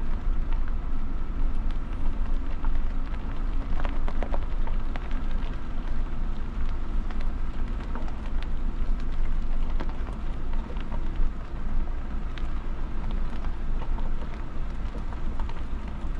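A large vehicle's engine running low and steady as it reverses slowly along a road, with a scatter of small ticks and crackles over the rumble.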